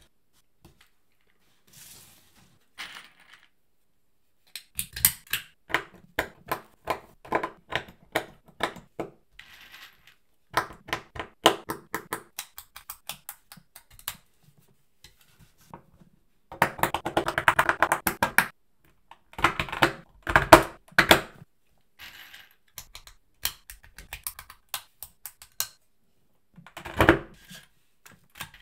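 Small hard plastic LEGO Technic parts clicking and rattling as they are handled and fitted together, in irregular clusters of quick clicks with short pauses between.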